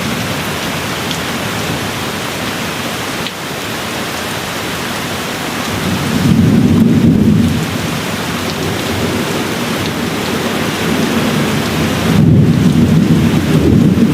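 Steady rain with low rolling thunder that swells twice, about six seconds in and again near the end.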